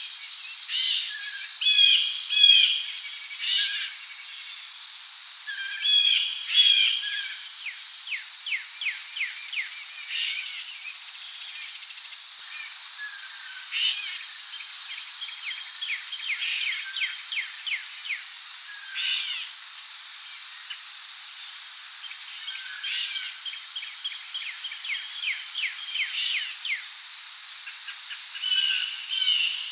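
Rainforest ambience: a steady, high insect drone with birds calling over it, in clusters of short repeated chirps and a quick series of rapid falling notes.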